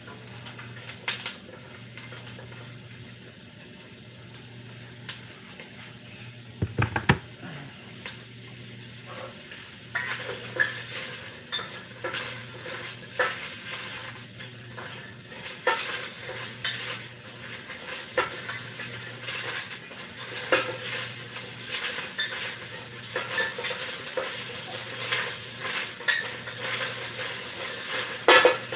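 Diced onion and bell pepper sizzling as they sweat in a hot pot, while a spoon stirs them, scraping and knocking against the pot roughly once a second. There are a few louder knocks about a quarter of the way in.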